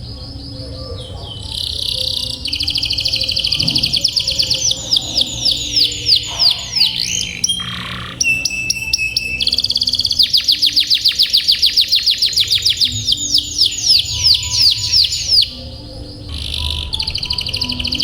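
Domestic canary singing long rolling trills: phrases of fast repeated notes, with brief pauses between phrases.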